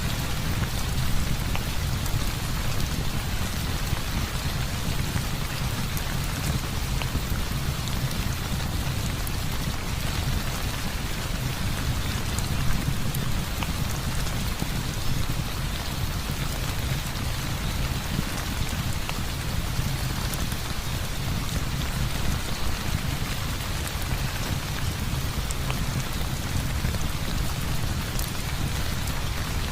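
Heavy rain falling steadily, with a deep continuous low rumble underneath and faint scattered ticks.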